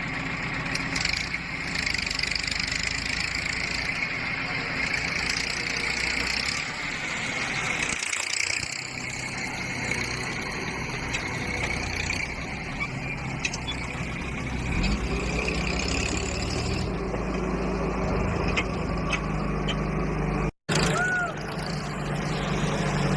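Heavy diesel engine running steadily. Its low note rises and gets fuller about two-thirds of the way through. The sound cuts out abruptly for an instant near the end.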